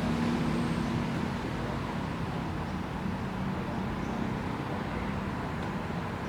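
Steady background rumble and hiss with a faint low hum, even throughout.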